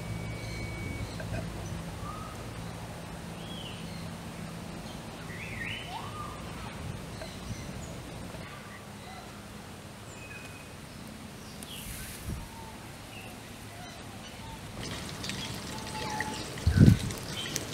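Open-air ambience with scattered short bird calls over a low rumble in the first several seconds. Near the end a wood fire crackles lightly, and there is one loud, low thump.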